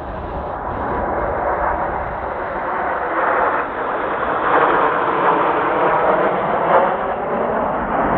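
Kawasaki T-4 jets of the Blue Impulse team flying past, a loud, rough jet roar that grows louder over the first few seconds and surges several times.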